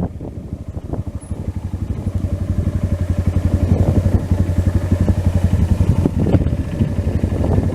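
Trail motorcycle engine running with a rapid, even beat, picking up and getting louder over the first few seconds, then holding steady.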